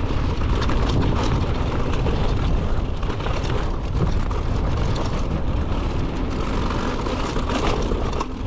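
Mountain bike riding fast down a dirt jump trail: wind rushing over the microphone, tyres on dirt, and many small rattles and knocks from the bike over bumps.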